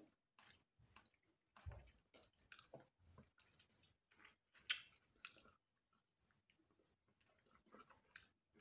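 Faint close-up chewing and biting of fried chicken: short, scattered wet mouth clicks and smacks, with the loudest pair about five seconds in and a pause of over a second after them.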